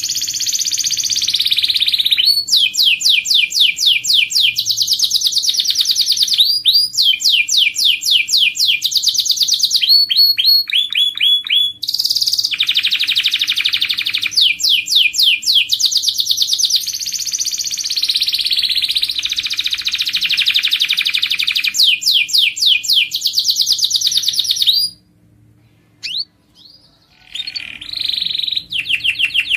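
Canary singing a long song of fast repeated trills, switching from one rolling phrase to the next every few seconds. It breaks off for about two seconds near the end, then resumes.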